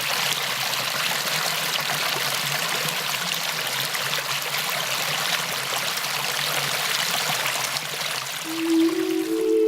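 A stream of water flowing steadily, a continuous even rush and splash. Music with held notes comes in near the end.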